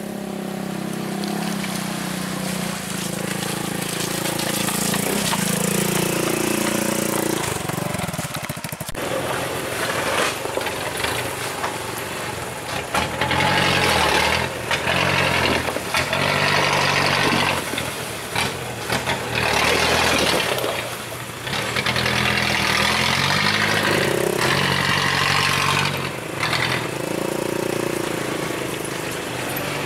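Truck engine running and revving up and down under load, with a string of hissing rushes, each a second or two long, through the middle part.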